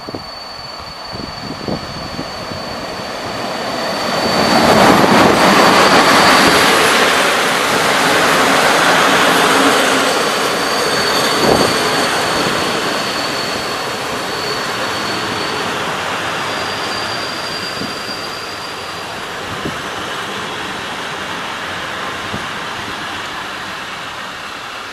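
A train passing on the rails, its running noise building to loudest about five seconds in and then slowly fading. A thin, high, steady wheel squeal comes and goes over it.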